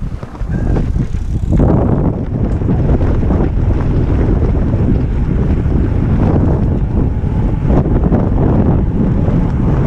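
Loud wind buffeting the microphone, starting about a second and a half in and holding steady, as from a camera carried on a moving bicycle.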